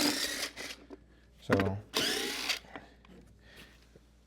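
Cordless impact wrench running in two short bursts, about two seconds apart, loosening a bolt that proves pretty tight.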